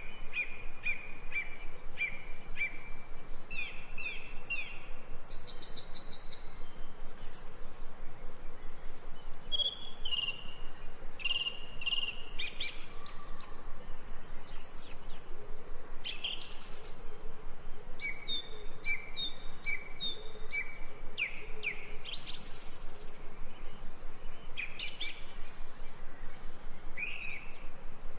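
Ambient birdsong: several songbirds chirping, with runs of short repeated down-slurred whistled notes and bursts of high trills over a soft natural background hiss.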